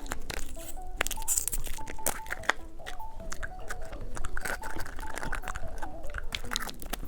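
Light background music with a simple stepping melody, over many crisp clicks, crunches and crinkles from candy and its plastic packaging being handled.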